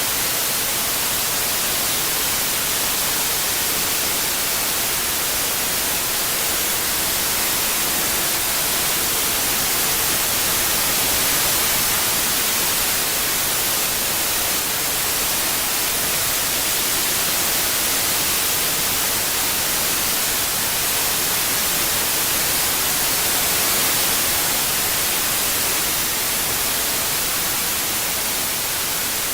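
Steady white noise, a hiss brightest in the treble, swelling and easing slightly in loudness, made for masking tinnitus.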